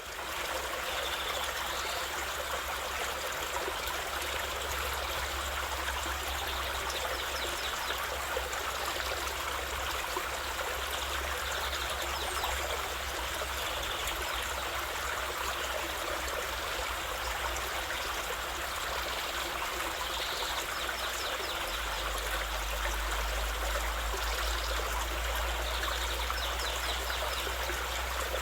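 A stream of running water flowing steadily, with a few faint short high chirps now and then.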